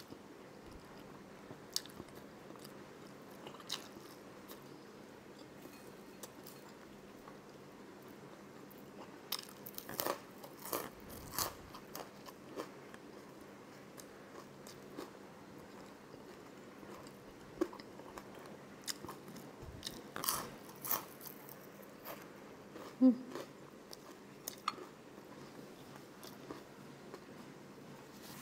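Close-miked mouth sounds of a person eating: chewing with crisp, crunchy bites, coming as scattered clicks and short clusters, with one sharper, louder crunch about two-thirds of the way through.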